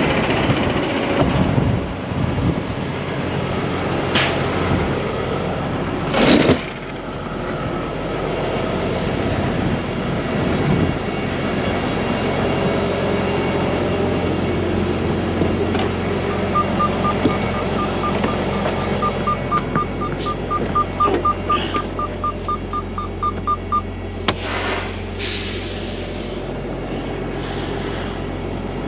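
Heavy truck engine idling steadily, with a few short loud noises. In the second half a rapid electronic beep at one pitch, about four a second, sounds for several seconds and then stops.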